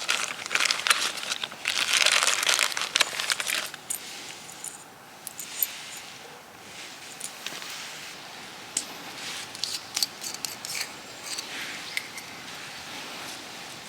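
Crinkling and rustling of something being handled, such as a bag or wrapping, for the first few seconds, then scattered small clicks and taps.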